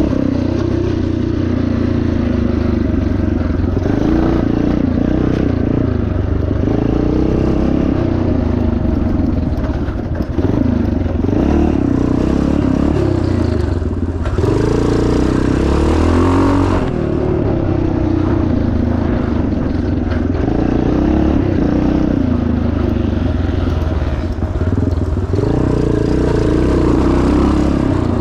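1977 Yamaha TT500's four-stroke single-cylinder engine ridden hard, revving up and falling back over and over, its pitch rising and dropping every few seconds with the throttle.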